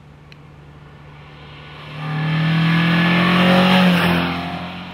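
Jensen-Healey's Lotus 907 twin-cam 16-valve four-cylinder engine as the car drives past. The engine note swells about two seconds in, is loudest near four seconds, then fades.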